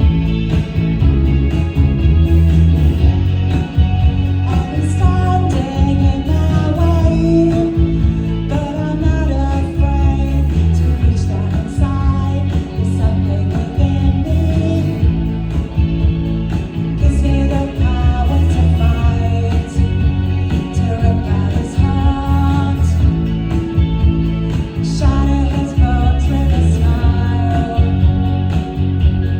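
Live rock band playing: a voice singing a melody over guitar, with a heavy low end.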